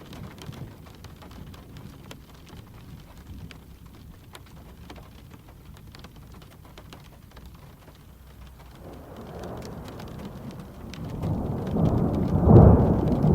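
Steady gentle rain with scattered sharp ticks, then a low rumble of thunder that builds from about nine seconds in and peaks near the end.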